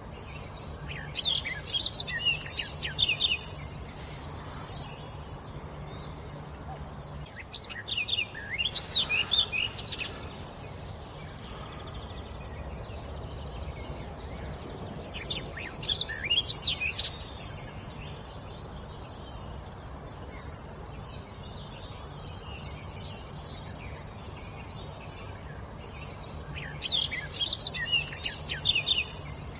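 A songbird singing in four short bursts of quick high chirps and whistles, several seconds apart, over a steady low background hum.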